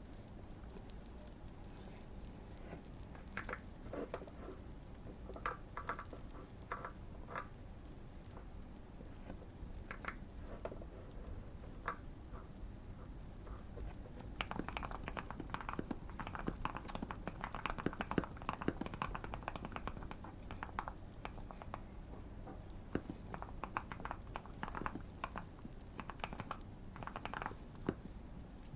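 Typing on a modded Keychron Q1 mechanical keyboard: irregular runs of short key clicks, busiest about halfway through, over a light background of fireplace crackling.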